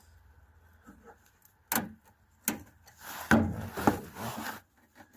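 Hand tool working a metal hose clamp on a rubber fuel line, loosening it. Two separate sharp clicks, then a stretch of scraping and clicking with two sharper clicks past the middle.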